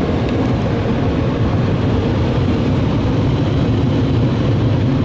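Car wash tunnel dryer blowers running, a steady, loud rush of air blasting over the truck.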